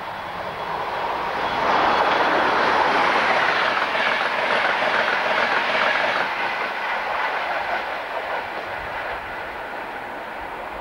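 British Rail Class 91 electric locomotive and its train of Mark IV coaches passing at speed. The rush of wheels on rail builds about a second and a half in, stays loudest for several seconds with a rapid rhythmic clatter of wheels, then fades as the train goes away.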